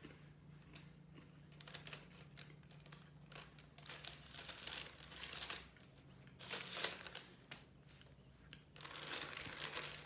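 Paper cookie bag or wrapper crinkling and rustling, handled in irregular bursts, over a low steady hum.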